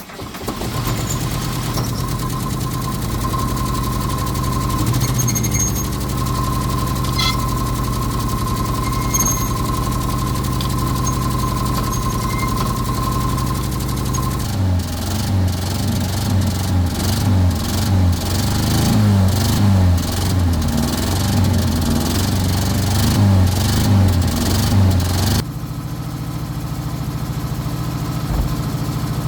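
Car engine running just after starting: steady idle for about fourteen seconds, then a louder, rougher, uneven stretch of about eleven seconds, then steady idle again.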